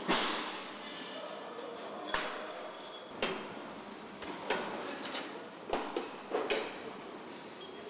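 Factory floor noise on a truck assembly line: a steady background din broken by about seven sharp metallic knocks and clanks, the loudest right at the start.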